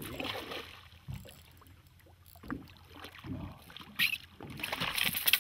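Hooked mahi-mahi being hauled aboard a fishing boat: scattered knocks, one sharp one about four seconds in, then a loud thrashing commotion near the end.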